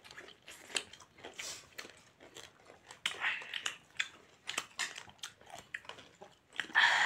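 Close-up mouth sounds of someone eating a mouthful of instant noodles: wet chewing and lip smacks in a run of small clicks. A louder rushing noise comes right at the end.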